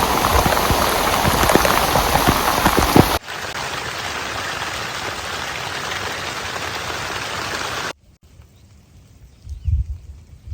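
Heavy rain in separate cuts. First come close, hard drops pattering on a surface, cutting after about three seconds to a softer, steady rain hiss. That stops abruptly near eight seconds, leaving quiet with a brief low thump near the end.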